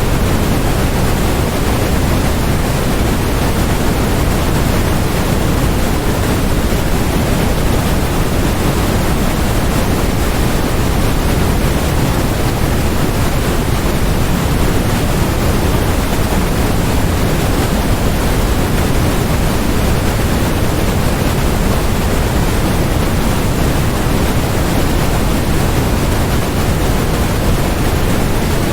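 Steady, electronically generated noise: a constant, even hiss weighted toward the low end, with no changes or events.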